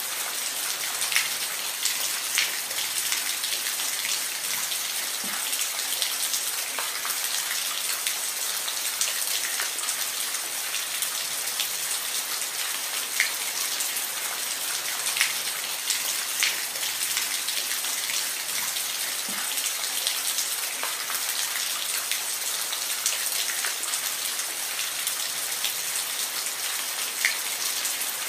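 Steady rain falling, an even hiss with scattered sharper drops landing close by.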